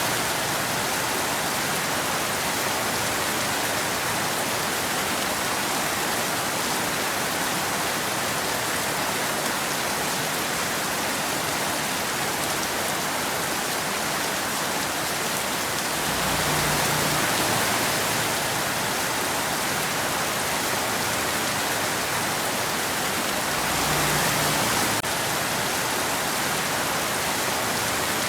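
Steady, dense rain: an even hiss of many drops. It swells briefly twice, with a deeper rumble underneath, about two-thirds of the way in and near the end.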